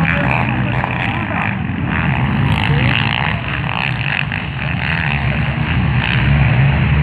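Motocross bike engines running and revving on a dirt track, dipping slightly midway and growing louder again near the end.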